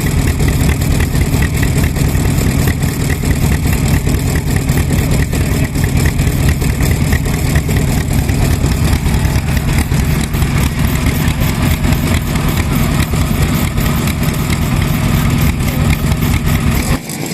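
Vintage stationary engine running steadily with a fast, even beat.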